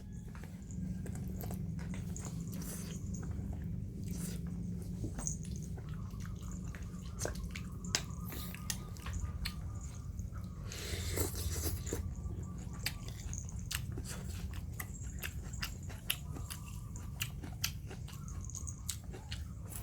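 Puppies eating: small, irregular chewing and biting clicks with soft smacking, over a steady low hum.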